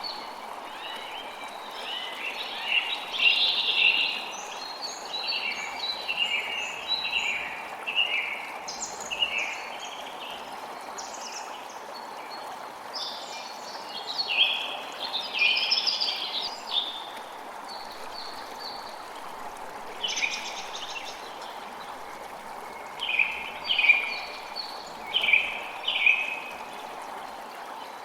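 Steady rush of running water, with birds chirping and calling over it throughout; four louder calls come in quick succession near the end.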